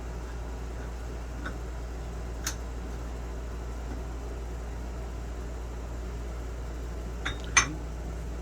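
A steady low hum with a few short, sharp metal clinks from parts being handled; the loudest come as a close pair near the end.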